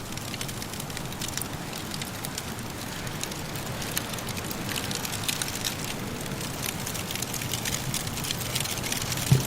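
Wood fire crackling in a fireplace: many small pops and snaps over a steady rushing background, with one sharper pop near the end.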